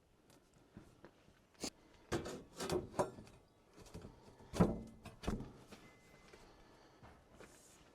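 About half a dozen knocks and clunks of objects being handled and set down, spread unevenly, the loudest about four and a half seconds in.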